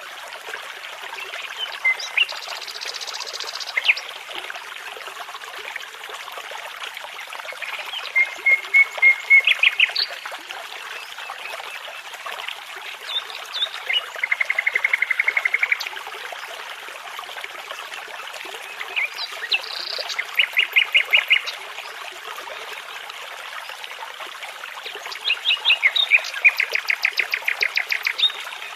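A songbird singing in separate short phrases every few seconds, each a quick run of rapidly repeated notes or a trill, over the steady babble of a shallow brook.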